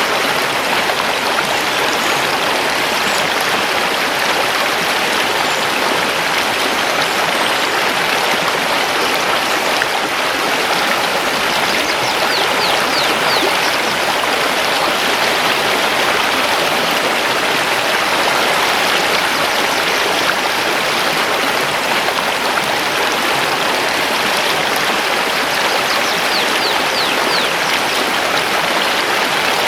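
Mountain river rushing over stones in a steady, even wash of water noise, with faint high chirps of forest birds about twelve seconds in and again near the end.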